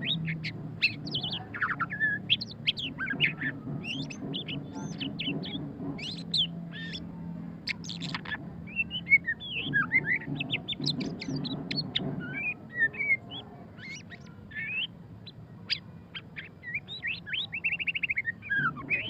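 White-rumped shama singing a fast, varied song of short whistles, slurred notes and chattering phrases, with a rapid trill near the end. A steady low hum runs underneath.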